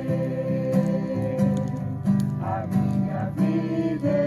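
Acoustic guitar strumming chords to accompany a group singing a slow worship song.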